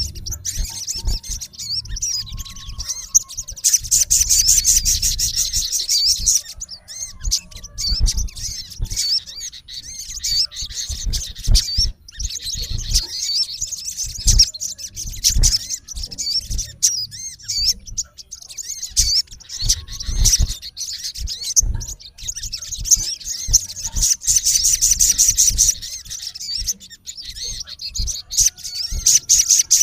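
Male olive-backed sunbird giving harsh territorial calls at a rival: rapid high-pitched chirps, with a fast buzzy trill about four seconds in and again near the end. Low bumps sound now and then underneath.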